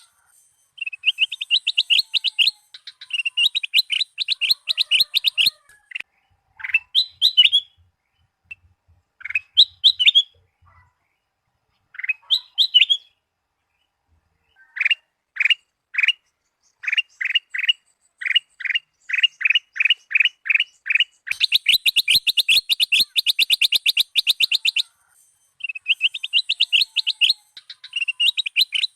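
Kutilang Emas bulbul singing: fast runs of sharp, repeated chirping notes with short pauses between phrases. In the middle the notes slow into an evenly spaced series, and they speed up into a dense rattling trill about three-quarters of the way through.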